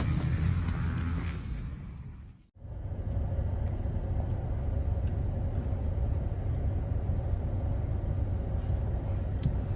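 Steady low rumble of vehicle engine and road noise, with a faint steady hum. It fades out to a brief silence about two and a half seconds in, then a similar steady rumble starts again.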